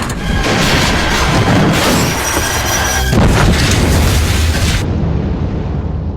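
A big explosion: a loud blast with crackling debris noise for several seconds, then a low rumble fading away near the end.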